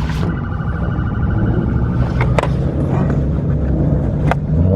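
Car engine running with a steady low rumble, with a few sharp clicks about two seconds in and again near the end.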